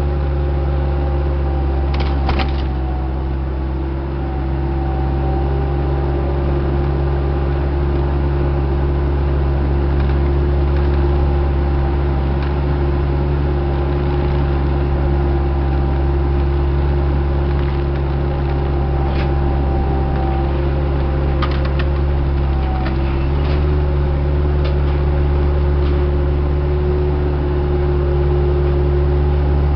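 Diesel engine of a piece of heavy equipment running steadily at a constant speed, heard from close by, with a few sharp clanks about two seconds in and again around two-thirds of the way through.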